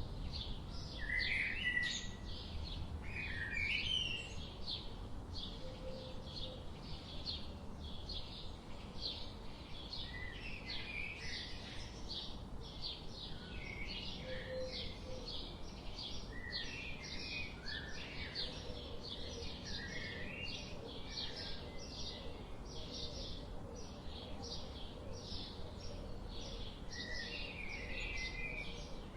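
Forest birds singing: a steady stream of short, high chirps, about two a second, with other birds' lower, varied calls weaving in and out, over a low steady background noise.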